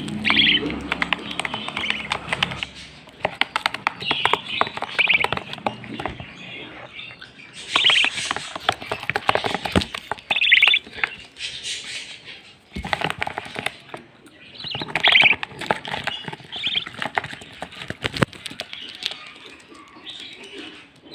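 Pet birds chirping in short bursts every second or two, with many short clicks and taps between the calls.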